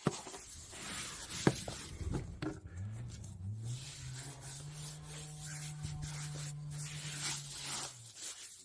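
Hands rubbing coarse salt into the skin of a scorched pig carcass, a dry rasping scrub with a few small knocks. A low steady hum comes in about three seconds in and stops shortly before the end.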